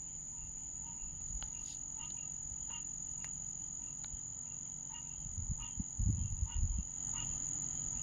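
Frogs calling in short repeated notes, about two a second, over a steady high-pitched insect drone. A burst of low rumbling noise comes about five and a half seconds in and lasts a little over a second.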